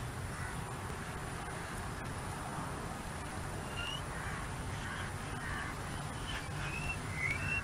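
Steady outdoor background noise with a low rumble, and a few short bird chirps, most of them near the end.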